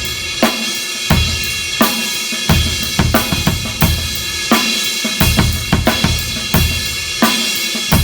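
Drum kit playing a rock groove: a crash cymbal ridden as a steady wash over bass drum and a snare backbeat at an even beat. Quiet offbeat ghost notes are filled in on the snare between the main hits.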